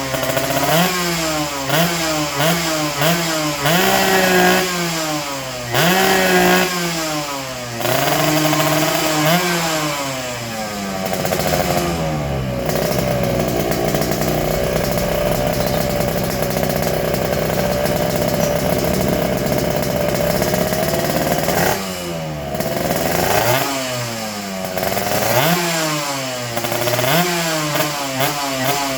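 Yamaha RX-King's two-stroke single-cylinder engine revving through an aftermarket stainless exhaust silencer. It is blipped up and down repeatedly, held at steady high revs for about ten seconds in the middle, then blipped again.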